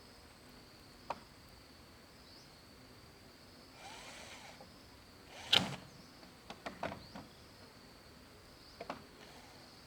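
Scattered sharp knocks and clatter, the loudest about five and a half seconds in, over a faint steady high-pitched insect drone.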